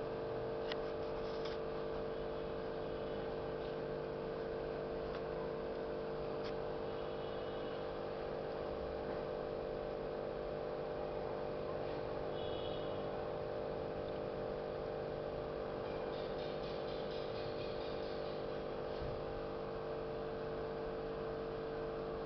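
Steady mechanical hum made of several constant tones, one much stronger than the rest, with a few faint clicks.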